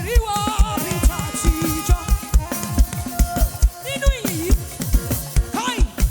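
Live African gospel praise music: the band plays a fast, steady beat with a kick drum about four times a second, and sung phrases slide over it.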